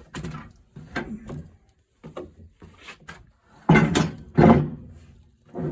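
A heavy oak board being handled and turned over: a series of wooden knocks and scrapes, the loudest two close together a little past halfway.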